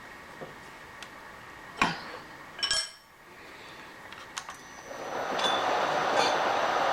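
A few sharp metallic clinks of metal on metal. About five seconds in, a milling machine's motor starts and builds up to a steady run.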